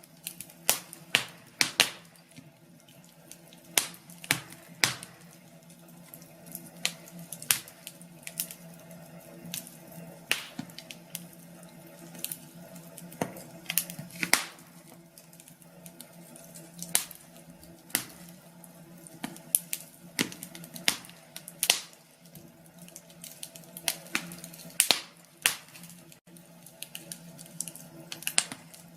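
Wood fire in a fireplace crackling, with irregular sharp pops and snaps a few times a second over a soft steady background.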